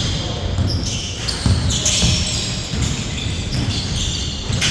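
Basketball dribbled on a hard court, bouncing about twice a second.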